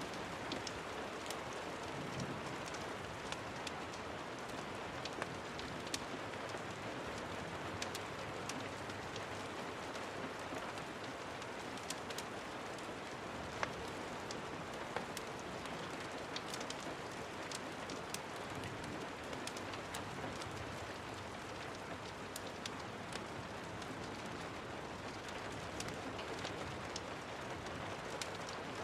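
Steady rain falling, a constant even hiss, with scattered sharp clicks and ticks at irregular moments throughout.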